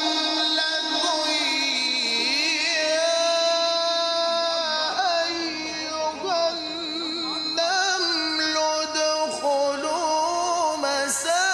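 A male Egyptian Quran reciter chanting tajweed recitation in maqam Rast. He holds long notes, some steady and some wavering, and bends the pitch in melismatic turns.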